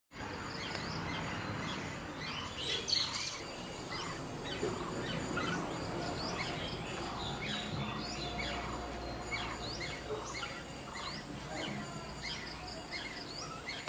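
Several small birds chirping together: a dense, overlapping run of short, quick chirps, with one louder call about three seconds in.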